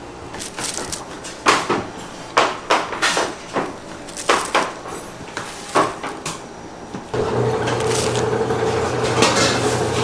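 Irregular sharp knocks and clatters, about ten over six seconds, as of utensils or tools striking hard surfaces. About seven seconds in they give way abruptly to a steady machine hum with a low tone and a higher tone under it.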